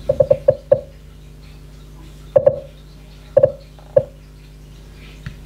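Google Home smart speaker giving short blip tones as a finger circles its touch top to change the volume. The blips come in a quick run of about six in the first second, then in pairs and singles about a second apart.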